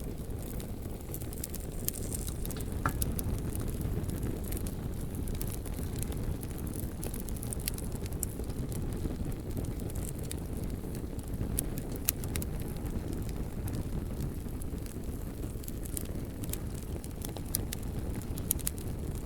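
Campfire burning, with frequent sharp crackles and pops scattered over a steady low rumble.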